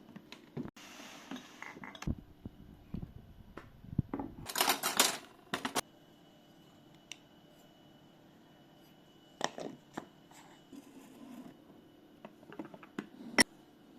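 Kitchen handling sounds: dishes, cups and utensils being set down and moved, with scattered sharp clinks and knocks and a short, louder noisy rustle about four and a half seconds in.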